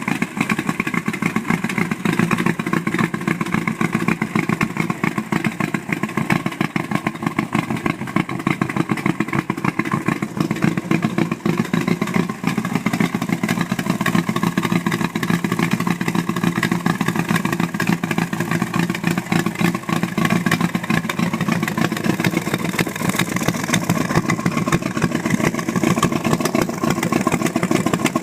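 Engine of a hot-rodded 1936 International Harvester C-1 truck running steadily, a fast, even stream of exhaust pulses.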